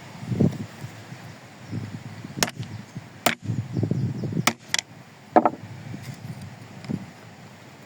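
Hand work on heavy green oak timbers: irregular dull wooden thuds mixed with about five sharp, short clacks.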